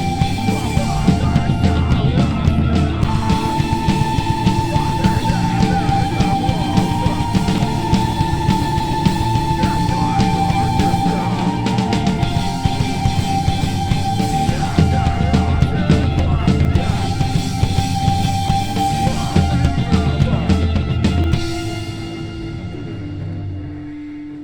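Live heavy rock band playing a loud instrumental passage, with distorted guitars and drums. About three seconds before the end the full band stops and a single held guitar note rings on.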